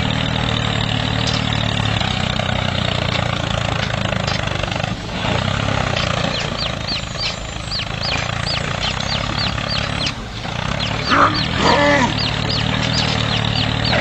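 A steady motor drone with an even low hum, joined from about halfway through by quick, repeated high chirps, a few each second.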